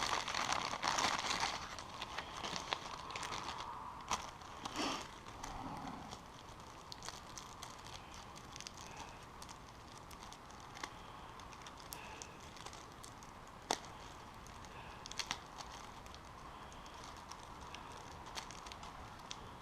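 Hand work on parts: scattered sharp clicks and taps with short bursts of rustling, busiest in the first few seconds, over a faint steady hum.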